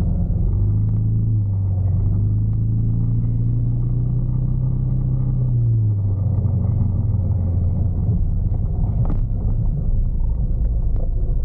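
Motorcycle engine running while riding, its pitch rising about a second in, holding steady, then dropping near six seconds in, over a steady low rumble.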